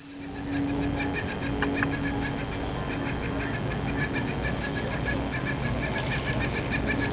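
Laughing gulls mating and calling in a long, even run of short high notes, several a second.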